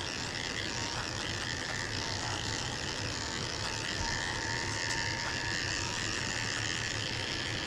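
Electric dog grooming clippers running steadily, the blade cutting through a thick, nearly dry coat.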